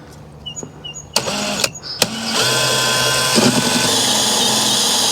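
A few short clicks and knocks, then about two seconds in a power drill starts and runs at a steady, even pitch, cutting a hole through wood for the 12-volt outlet.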